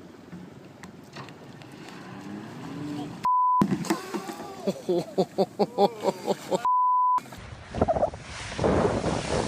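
Two censor bleeps, each a steady high beep, about three seconds in and about seven seconds in, laid over choppy excited voices. Near the end there is a rush of wind-like noise.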